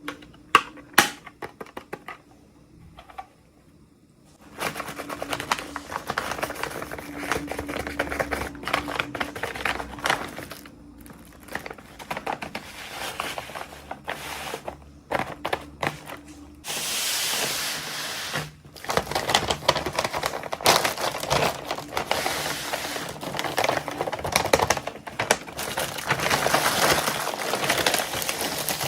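Toy packaging being handled and unwrapped by hand, crinkling and rustling with many small clicks and taps. A few sharp clicks come in the first two seconds, then the crinkling runs steadily from about five seconds in and grows louder after about seventeen seconds.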